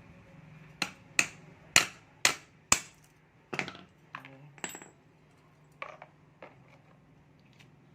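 Sharp metal-on-metal knocks and clinks from engine parts and tools during a motorcycle engine teardown: five hard ringing strikes about half a second apart, then a few lighter clinks.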